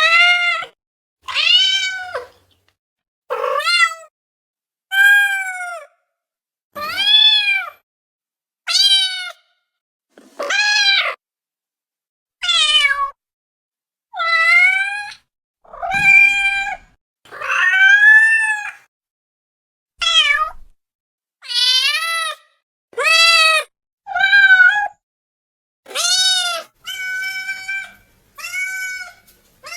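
Domestic cats meowing: a string of about eighteen separate meows, one every second and a half to two seconds, each rising then falling in pitch, with dead silence between them.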